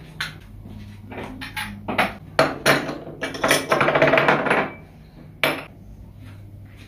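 Kitchen dishes and utensils being handled: a series of sharp clinks and knocks, with a longer stretch of clattering and scraping about three seconds in, then one more knock.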